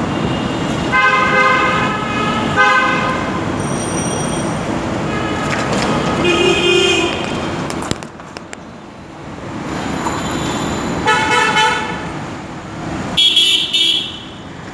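Road traffic with vehicle horns honking several times, short held blasts over a steady traffic hum. The hum drops for a while about halfway through, and a loud horn sounds near the end.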